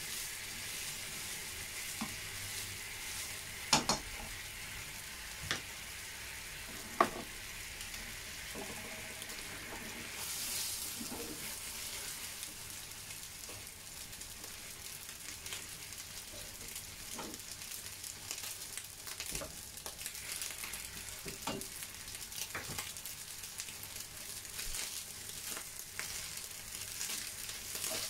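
Rice frying in soy sauce in a pan, a steady sizzle, with now and then a sharp knock or scrape of the stirring utensil against the pan; two of the knocks, a few seconds in, stand out as the loudest.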